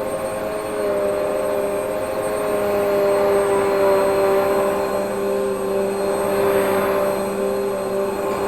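Vacuum cleaner running steadily, its motor giving a constant whine over rushing air, a little louder from about three seconds in.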